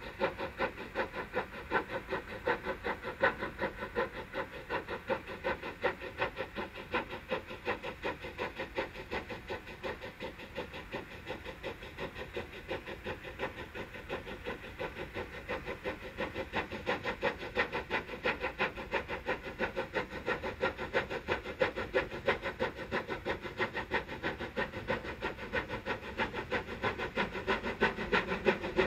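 Steam locomotive chuffing in a quick, steady rhythm of exhaust beats.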